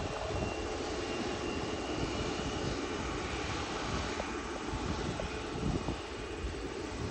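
Jet airliner near the airport, its engine noise a steady rumble with no sudden changes.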